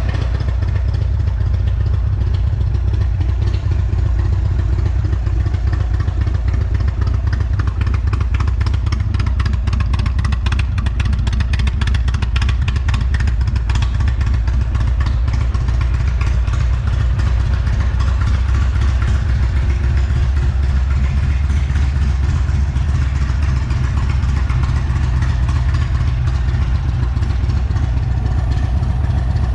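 Indian Thunderstroke 116 V-twin engine of a 2023 Chieftain Elite motorcycle idling steadily.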